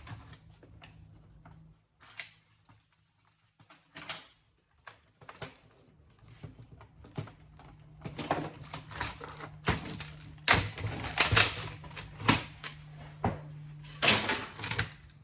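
Irregular clicks, knocks and rattles of the metal and plastic parts of a home theater unit being handled and pulled apart by hand, busier in the second half, over a steady low hum.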